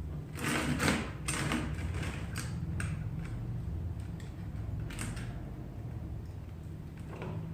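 A handful of sharp clicks and knocks from tools and parts being handled while working on a garden tractor, bunched in the first few seconds with single knocks about five seconds in and near the end, over a steady low hum.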